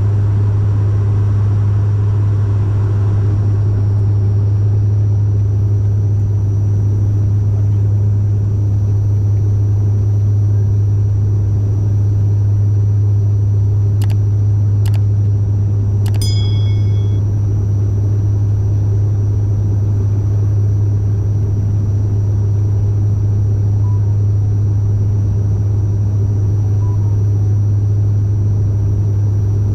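Steady drone of a Bombardier Dash 8 Q400's turboprop engines and propellers heard inside the passenger cabin in flight, with a strong, constant low hum. About halfway there are a couple of clicks and a short chime-like tone.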